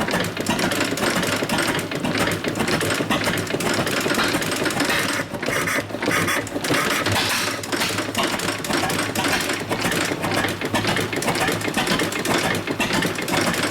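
Frisco Standard two-cylinder gas boat engine running with a steady, rapid mechanical clatter.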